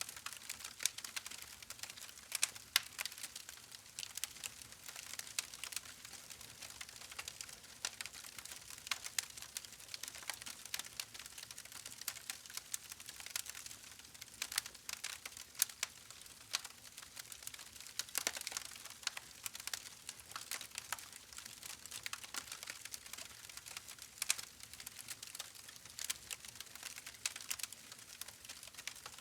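Campfire burning, wood crackling with dense, irregular pops and snaps over a soft hiss.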